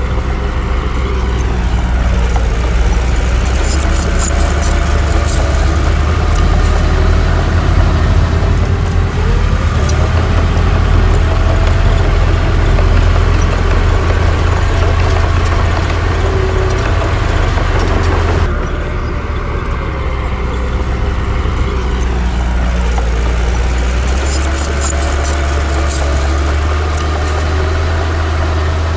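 Heavy diesel engine of a Komatsu D60 bulldozer running with a deep steady drone, its pitch slowly rising and falling as it works. Metallic clinks come in clusters early and again near the end, and the sound changes abruptly about two-thirds of the way in.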